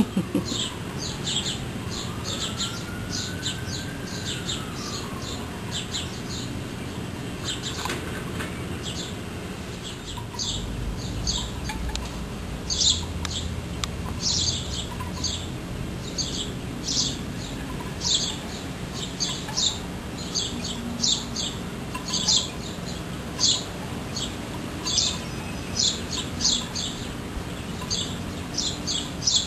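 Bird chirping: short high chirps repeated in quick runs of several a second, growing louder and more frequent about halfway through.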